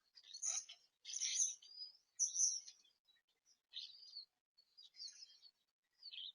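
Bird calling at the feeder: a series of about six short, high chirps, roughly one a second, the loudest in the first three seconds.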